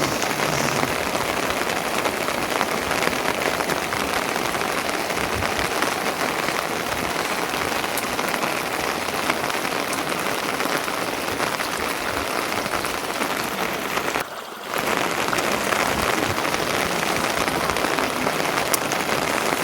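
Steady rain falling, an even, unbroken hiss that drops away for a moment about three quarters of the way through.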